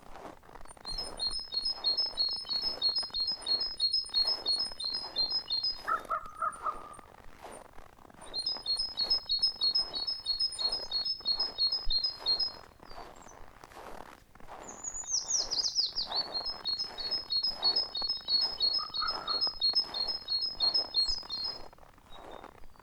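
A songbird singing a long, fast series of repeated high notes, about four a second, in three bouts of around four seconds each. Between the bouts there is a quick high falling call and a couple of lower short calls.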